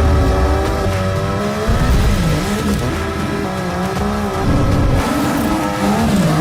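Superbike engine revving, its pitch rising and falling again and again.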